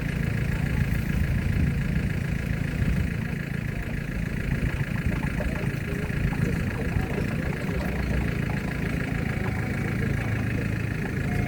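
Stand-up forklift running steadily: a constant low hum with a steady higher whine over it.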